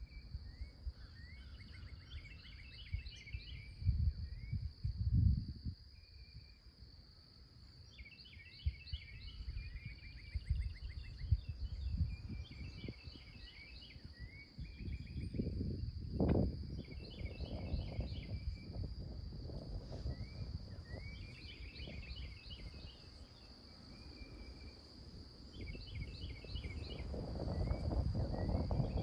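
Morning outdoor ambience: a songbird repeats a short, quick song every few seconds over a steady high insect drone, with irregular low rumbling noise that swells about halfway through and again near the end.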